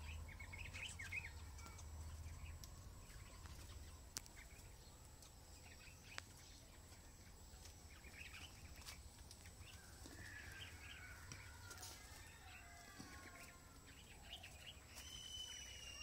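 Faint small-bird chirps and calls. There is a cluster of short chirps at the start, a couple of faint clicks, and then a series of falling whistled calls in the second half.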